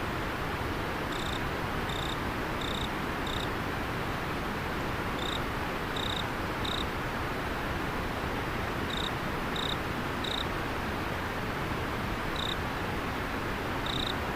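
River water flowing steadily, with an insect chirping over it: short high chirps about every 0.7 s, in runs of three or four with pauses between.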